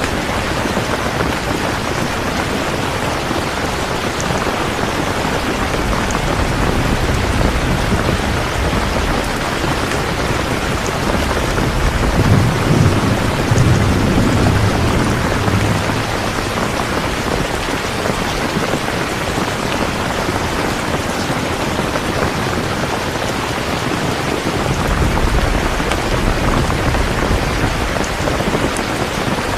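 Steady heavy rain, with low rumbles of thunder that swell about twelve seconds in and again near the end.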